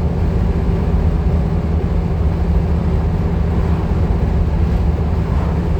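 Van driving along, heard from inside the cab: a steady low engine drone with road noise.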